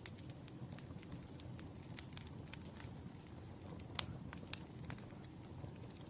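Wood fire burning: a steady low rumble of flames with irregular sharp crackles and pops, one louder pop about four seconds in.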